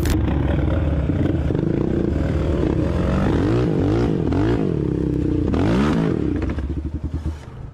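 Motorcycle engine running, revved up and down several times in the middle, with pitch rising and falling, then fading away near the end.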